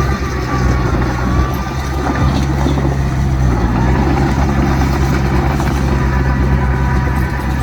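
Large diesel engine of heavy earthmoving machinery running steadily under load, a deep, even engine drone.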